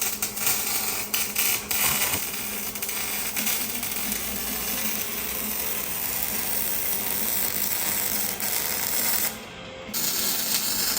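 Metal clinking and tool noise from exhaust work, with a few sharp clicks in the first two seconds over a steady hiss that drops out briefly near the end.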